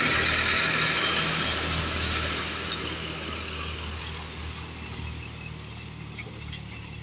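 Tractor diesel engine running steadily, getting gradually quieter.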